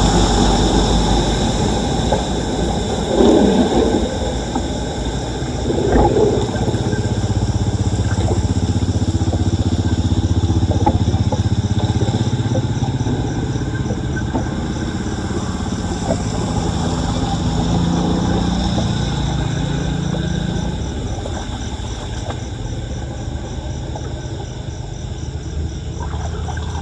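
Floodwater rushing and gurgling down a cleared street storm drain, a steady loud rush with a shifting low rumble and a couple of splashing thumps in the first few seconds.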